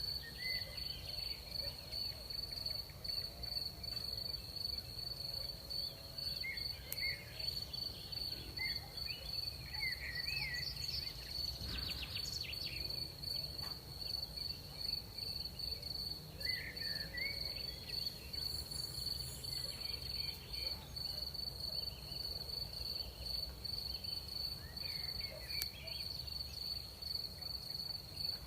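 Crickets trilling in one steady, continuous high-pitched drone, with a few short chirping calls now and then and a low rumble of night air beneath.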